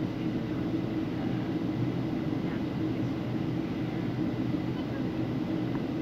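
Steady low drone of a moving vehicle heard from inside the cabin, even in level throughout.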